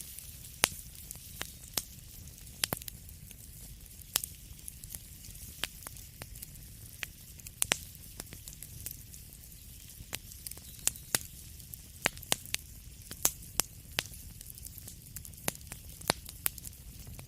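Wood fire crackling: frequent sharp, irregular pops and snaps over a steady low rumble and faint hiss, the pops coming thicker in the second half.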